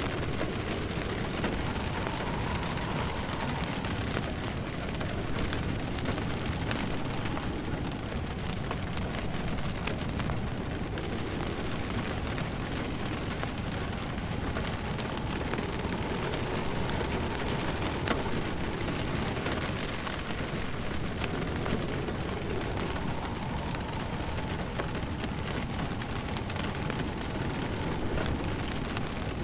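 Steady rain mixed with a crackling wood fire, many small sharp crackles over an even hiss of rain. A softer low sound swells and fades every few seconds underneath.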